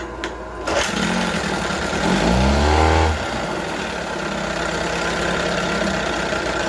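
A 1978 Johnson 6 hp two-cylinder two-stroke outboard catching on choke after priming, a cold start, about a second in. Its revs climb briefly around two to three seconds, then it settles into steady running.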